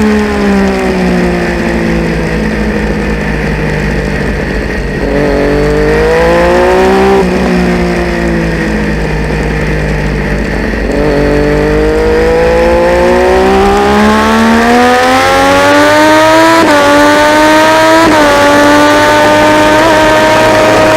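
Triumph Daytona 675 three-cylinder racing motorcycle engine under race conditions. The revs fall away, climb briefly and drop back about seven seconds in, then build steadily from about eleven seconds, with two quick upshifts near the end before holding high revs.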